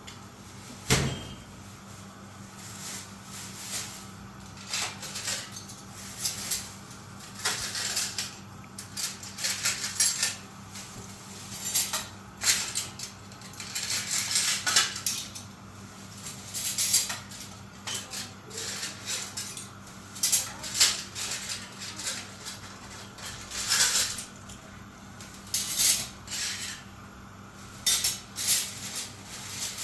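Dishes and cutlery clattering as they are handled: irregular clinks, knocks and scrapes, some in quick runs, over a steady low hum.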